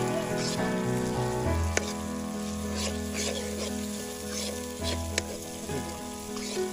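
Goat offal masala sizzling in a kadai while a metal spoon stirs and scrapes it, with a few sharp clinks of the spoon on the pan. A steady hum of held tones runs underneath.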